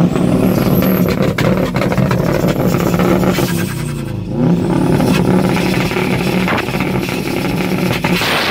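Modified first-generation Subaru Impreza's flat-four engine being revved loudly, the revs falling and climbing again several times.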